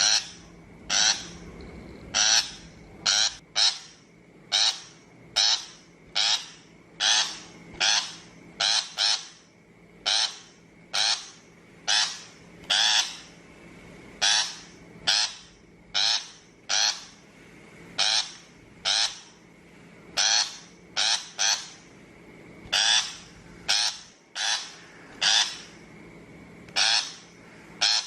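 Shrike giving short, harsh calls over and over, about one or two a second, sometimes in quick pairs: the bách thanh call used as a lure for trapping.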